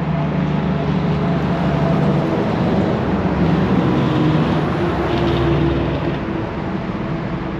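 Three trucks driving past one after another: loud engine drone and tyre noise, the engine pitch shifting as one truck gives way to the next.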